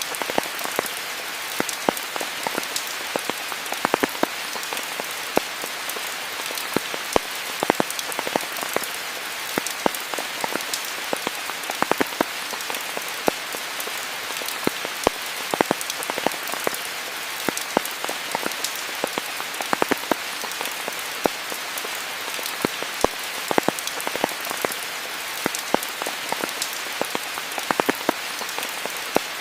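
Steady rain falling, an even hiss with many loud individual drops ticking close by, several a second, at irregular intervals.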